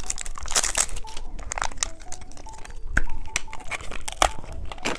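Plastic candy packaging crinkling and crackling as it is handled and opened, a run of sharp crackles and clicks.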